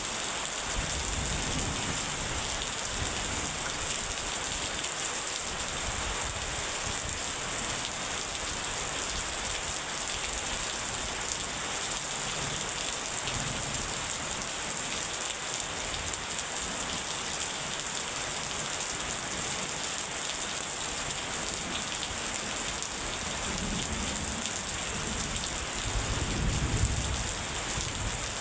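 Heavy rain falling steadily, with low rolls of distant thunder now and then; the loudest rumble builds near the end.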